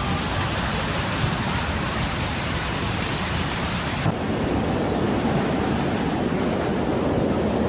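Steady rushing noise of a storm: wind and heavy water with no distinct events. About four seconds in it cuts to another recording, where the noise is duller and lower.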